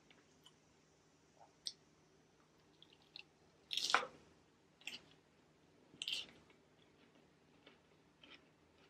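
Close-miked chewing of a mouthful of romaine Caesar salad: scattered wet crunches, smacks and small clicks, the loudest about four seconds in and again about six seconds in.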